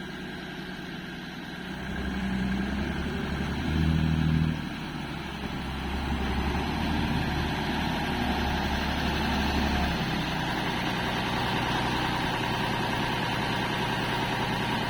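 Truck engine running, picking up about two seconds in with a brief louder rev around four seconds, then running steadily.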